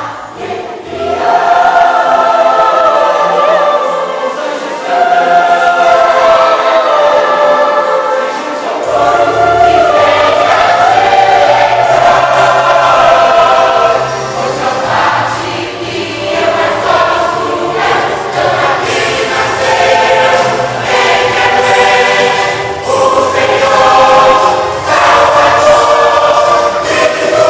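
A church choir singing a Christmas cantata song with accompaniment. The singing starts right at the beginning, and a bass line comes in about nine seconds in.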